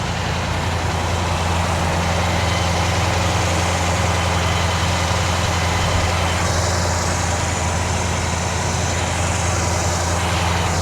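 A 1967 Chevrolet Impala SS's 396 big-block V8 idling steadily, still warming up after a cold start and sounding healthy.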